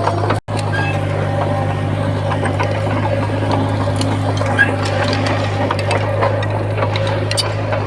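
Heavy diesel earthmoving machinery running at a steady drone, with scattered clanks and scrapes over it. The sound cuts out for an instant about half a second in.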